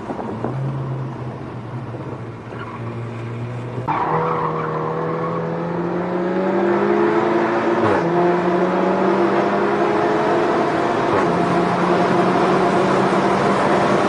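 SEAT León Cupra's turbocharged four-cylinder engine heard from inside the cabin on a track lap, with road noise from the tyres. It runs steadily at first, then about four seconds in comes on hard, its note climbing as the car accelerates out of a bend. It drops sharply at an upshift about eight seconds in and pulls on steadily in the next gear.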